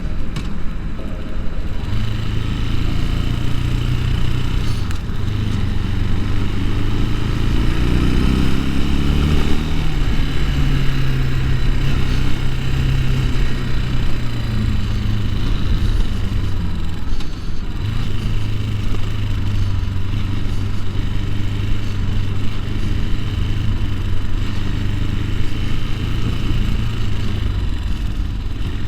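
Bashan Brozz 250 dual-sport motorcycle engine running under way, revving up in a rising pitch about eight to ten seconds in, then settling to a steady note.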